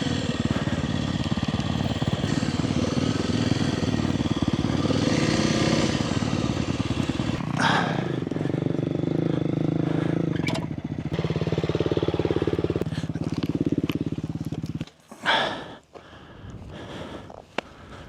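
Kawasaki KLX300R dirt bike's single-cylinder four-stroke engine running at low revs, slowing to a lower putter, then cutting out about fifteen seconds in. A brief knock comes just after it stops, followed by a few faint clicks.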